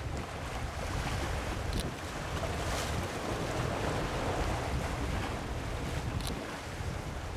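Wind rumbling on the microphone over the wash of sea waves, swelling a little midway, with three faint short clicks.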